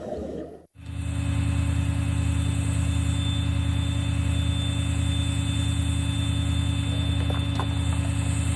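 Steady low mechanical hum that starts abruptly under a second in, after a brief dropout, and then runs unchanged.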